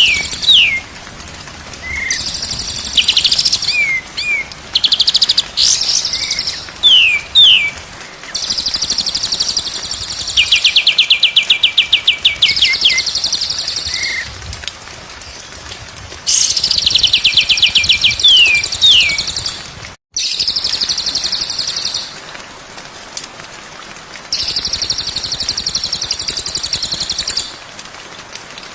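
White-rumped shama (murai batu) song on a bird-training recording: bursts of a few seconds of rapid, buzzy high trills and quick descending whistles, separated by short pauses. A brief dropout about two-thirds of the way through.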